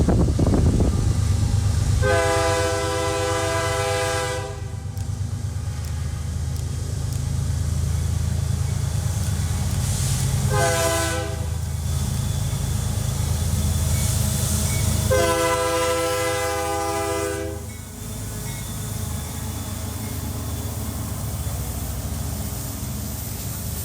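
Diesel freight locomotive horn sounding three blasts, long, short, then long again, over the steady low rumble of a passing train. The rumble eases off a little near the end.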